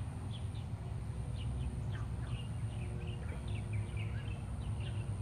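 Small birds chirping: many short, scattered calls over a steady low background rumble.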